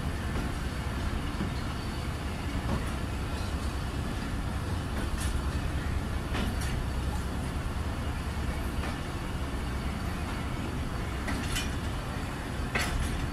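Moving passenger train heard from an open coach doorway: a steady rumble of the wheels on the track, with a few sharp clacks scattered through it.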